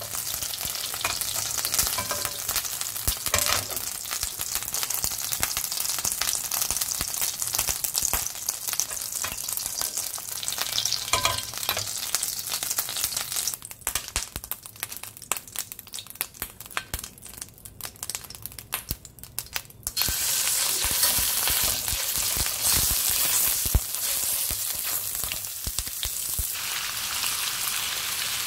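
Butter sizzling and crackling in a hot stainless frying pan. After a quieter patch of sparse crackles, the sizzle turns louder and denser about 20 seconds in as strips of beef rib finger meat (galbitsal) fry in the melted butter.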